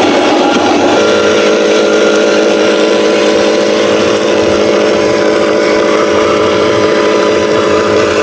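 Truck engine sound running steadily from the RC Scania 770S logging truck, changing briefly in the first second before settling back to an even note.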